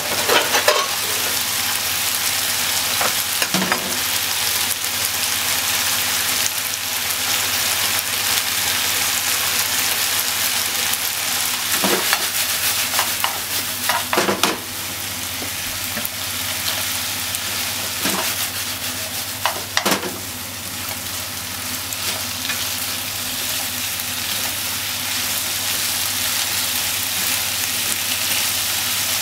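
Pork belly, okra and onion sizzling steadily in a frying pan as they are stir-fried. Now and then the stirring utensil scrapes and knocks against the pan.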